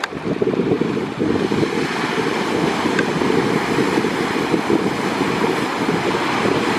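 Strong wind buffeting the microphone with the sea's wash underneath, a steady, heavy rumble without breaks.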